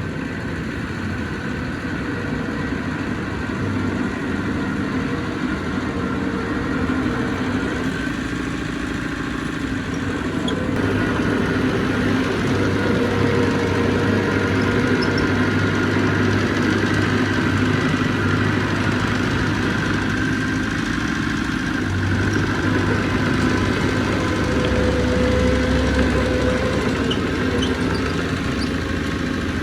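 Heavy construction machine's diesel engine running, its pitch and load rising and falling, louder from about a third of the way in.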